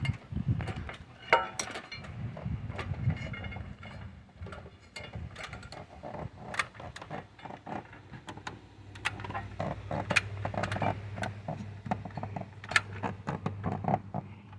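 Irregular clanks, clicks and rattles of someone climbing a ladder with tools, with a low steady hum coming in about two-thirds of the way through.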